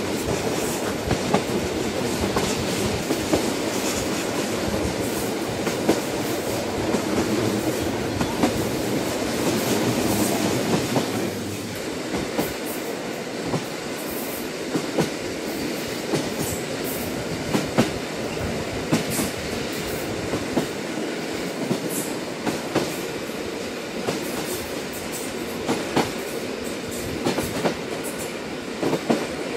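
A train running on rails: a steady rumble of wheels and carriage with scattered clicks and knocks from the track. The rumble eases slightly about a third of the way in.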